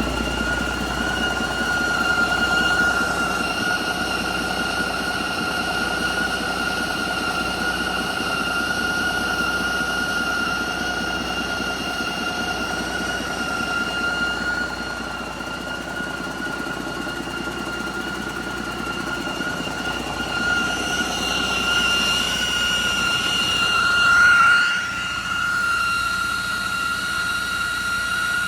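2011 Detroit Diesel DD13 12.8 L diesel engine running steadily, with a steady high-pitched whine over the engine rumble. It swells briefly louder about three-quarters of the way through, then settles back.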